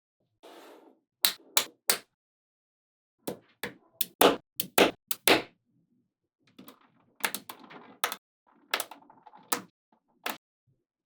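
Small magnetic balls clicking sharply as they snap onto one another, in irregular bunches of clicks with a soft rattle between them.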